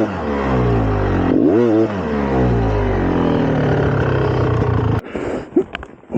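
2004 GasGas EC300 two-stroke dirt bike engine running, its pitch falling off the throttle with two short rev blips. The engine sound cuts off abruptly about five seconds in.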